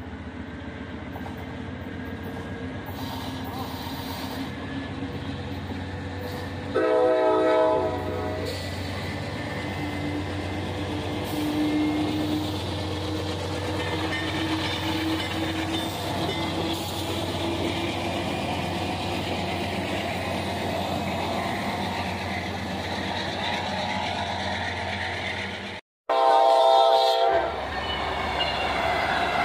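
A diesel train passing a grade crossing: the engine's low steady drone builds, a locomotive air horn sounds a chord for about a second and a half about seven seconds in, and the train rolls by. After a sudden break near the end, an Amtrak Genesis locomotive sounds its horn loudly as it passes, and its horn starts again at the very end.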